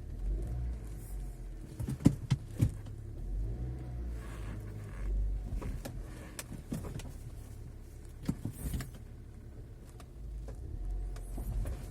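Hyundai Elantra heard from inside while it rocks, with a low running rumble and several sharp clicks and knocks from the rear. This is the metallic creak from the boot that the owner suspects comes from the trunk lid hinges, sounding from either side when the body rocks.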